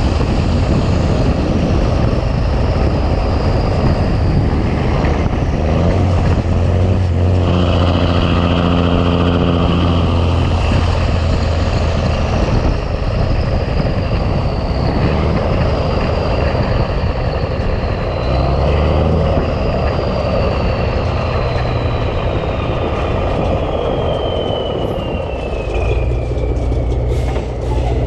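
Big Cam Cummins inline-six diesel of a 1986 Ford LT9000 truck running under way, a steady heavy drone. Through the second half a high whistle slowly falls in pitch.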